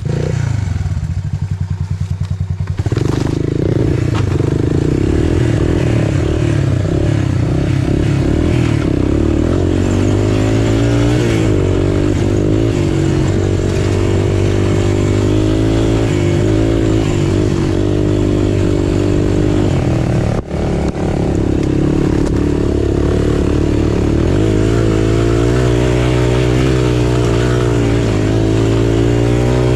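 Single-cylinder trail machine engine (three-wheeler or dirt bike) running under way, its revs rising and falling with the throttle, with a momentary cut about two-thirds of the way through.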